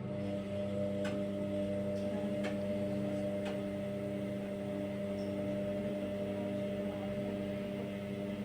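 Indesit Innex washing machine running with a steady electric motor hum at a fixed pitch, plus a few faint clicks in the first few seconds.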